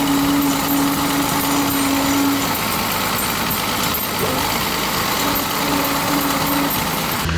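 Deutz-Fahr D800 tractor's engine running steadily, with a low steady hum that fades out a couple of seconds in and returns briefly later.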